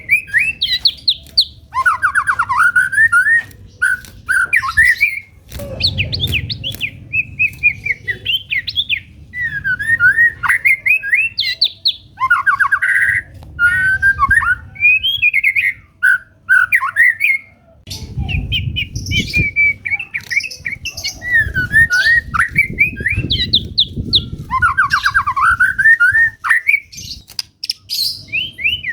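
White-rumped shama singing a long run of varied whistled phrases, rising and falling in quick notes, with sharp clicks between phrases. A low rumble sits underneath for a few seconds in the second half.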